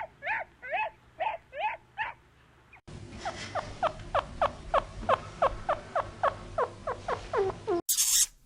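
An animal's short, high-pitched calls: about six evenly spaced calls, then a faster run of shorter calls that slide down in pitch, about four a second. Near the end there is a sudden loud hiss.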